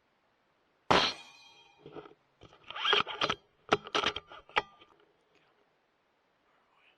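A sharp metallic clang that rings on briefly, about a second in, followed by a run of clanks and scraping of metal.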